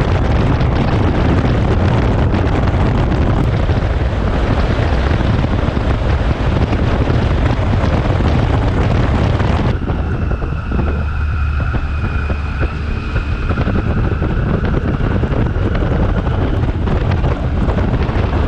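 Heavy wind noise on the microphone: a dense, steady rush with a strong low rumble. About ten seconds in, the rush eases a little and a steady high two-note whine comes in underneath it.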